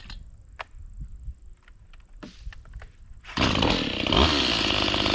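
Stihl chainsaw pull-started: a few faint knocks, then the engine catches suddenly about three and a half seconds in and runs loud and steady, the quick single-pull start it is known for.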